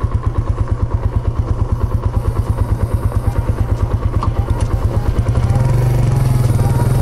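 Suzuki GN125H's single-cylinder four-stroke engine idling with an even beat, then revving up as the bike pulls away about five and a half seconds in. The bike has just had its 10,000 km service.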